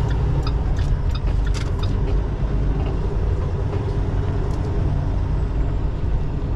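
Semi-truck diesel engine running steadily, heard from inside the cab as a low rumble. During the first couple of seconds the turn signal ticks about three times a second, set for a left turn.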